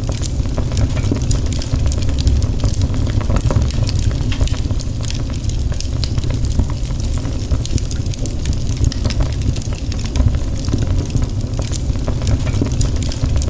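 Fireplace fire crackling, with many small irregular pops over a steady low rumble.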